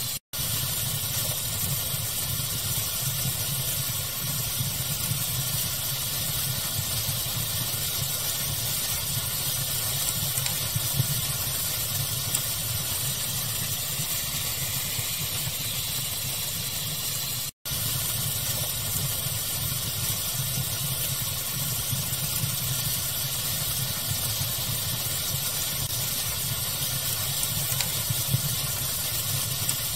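Steady pink-noise hiss layered with a crackling fire, a few small crackles standing out. The sound cuts out completely for a split second twice, just after the start and about halfway through.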